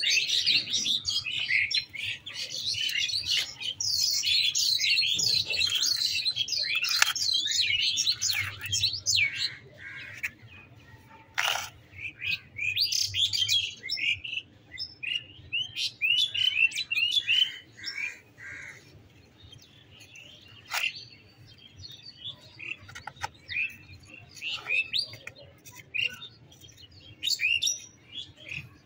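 Small birds chirping: a dense run of overlapping high chirps for the first ten seconds or so, then scattered calls. A couple of sharp clicks sound among them.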